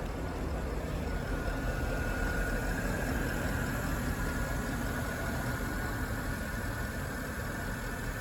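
Porsche Panamera 4S's 4.8-litre V8 idling steadily, with a steady high whine coming in about a second in.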